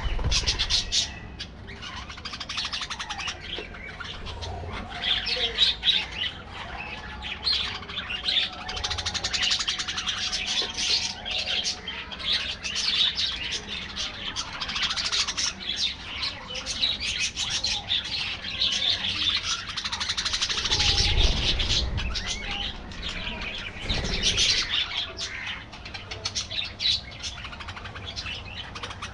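A flock of budgerigars chattering and chirping continuously, many birds at once in dense overlapping warbles. Two brief low rumbles come in the second half.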